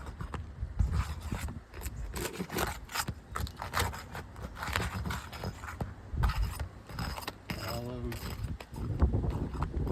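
Irregular scraping and clicking of a roofing pry tool worked under brittle Atlas Chalet asphalt shingles, breaking the sealant strips between courses. A short wavering pitched sound comes about eight seconds in.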